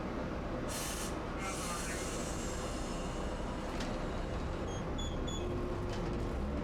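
Tosaden streetcar: a steady low rumble, with a short hiss of air about a second in and two pairs of short high beeps around five seconds in.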